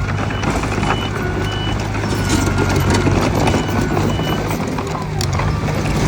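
Bulldozer's diesel engine running steadily with clattering of its tracks and blade, while a reversing alarm beeps on and off.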